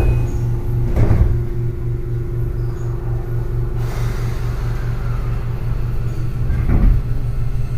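Inside a Keio 8000 series train car at a standstill: a steady low hum from the car's equipment, pulsing about four times a second, with a faint steady tone over it and two short thumps, about a second in and near the end.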